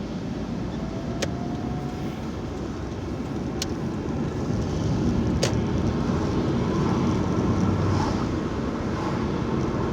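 Road noise inside a moving car: a steady low rumble of engine and tyres that grows louder about halfway through, with three sharp ticks in the first half.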